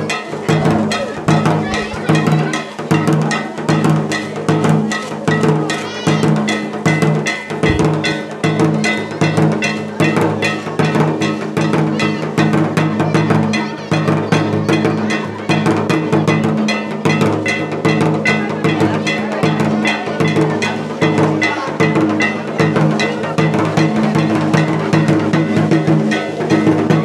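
Fast, continuous drumming with clanging metal percussion, keeping a steady dance beat.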